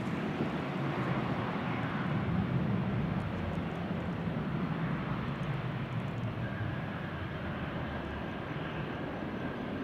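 Boeing 777-300ER's GE90 jet engines running as the airliner lands: a steady, noisy rumble that swells slightly a couple of seconds in, with a faint thin whine coming in later.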